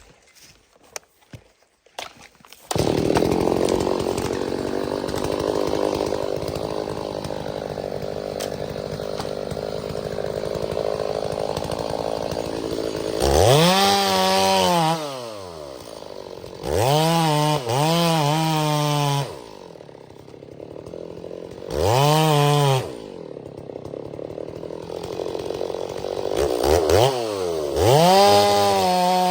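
Chainsaw running: a few clicks, then about three seconds in the saw comes in loud and holds a steady pitch under load, as when cutting into a trunk. From about thirteen seconds it is revved up and dropped back to idle several times.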